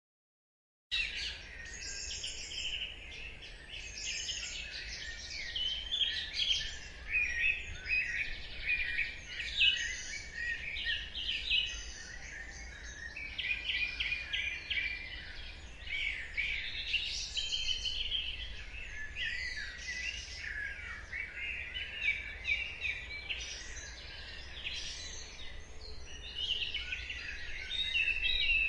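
Dawn chorus: many birds singing and chirping at once in dense, overlapping high calls, starting about a second in.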